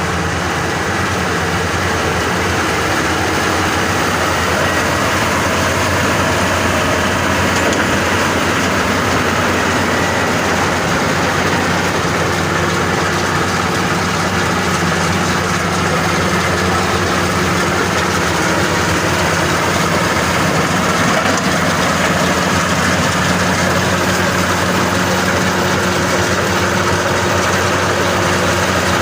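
Maxxi Bimo 102 SS combine harvester's engine running steadily, with the mechanical clatter of the machine at work.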